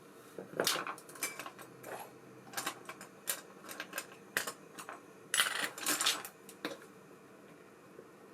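Small metal parts of an ABU Ambassadeur 5500C baitcasting reel clicking and clinking as they are handled and set down on a workbench, in irregular bursts with a longer clatter about five seconds in.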